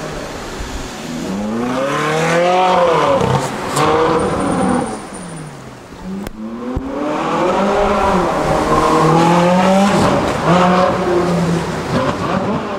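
Mansory Siracusa 458 Spider's naturally aspirated 4.5-litre V8 revving hard several times, the engine note climbing and falling with each rev.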